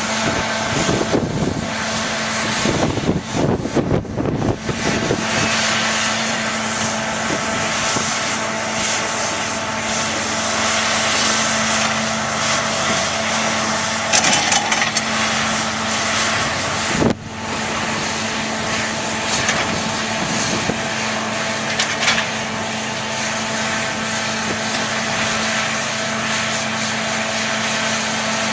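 Diesel engines of heavy earthmoving machinery, a track loader and a hydraulic excavator, running steadily at work, with a single sharp click about two-thirds of the way through.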